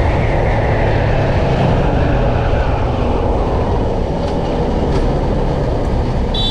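Steady wind rumble buffeting the microphone, mixed with the running engine and road noise of a Yamaha FZ-S V2 single-cylinder motorcycle under way.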